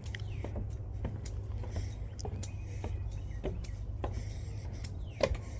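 Footsteps on a park trail, a run of irregular clicks over a steady low rumble, with a bird's falling chirp at the start and again near the end.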